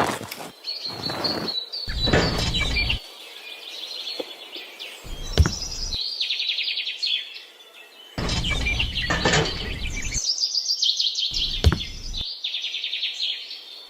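Small birds chirping in quick trills. Several bursts of rough noise start and stop abruptly between the chirps.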